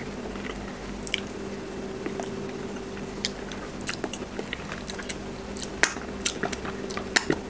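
A person chewing a mouthful of chicken up close, with scattered small crunches and mouth clicks, over a steady low hum.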